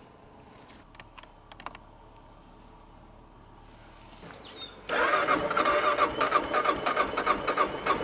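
Motorcycle engine being jump-started from a portable lithium booster after its battery went dead: a short crank, then it catches about five seconds in and keeps running with rapid, even firing pulses.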